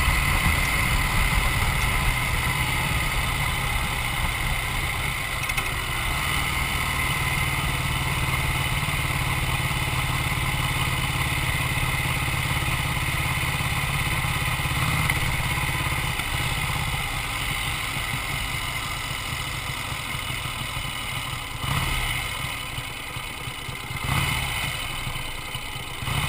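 Vincent Black Shadow's 998 cc 50° V-twin running with a steady low rumble that eases and quietens after about sixteen seconds, then three short louder bursts of engine near the end.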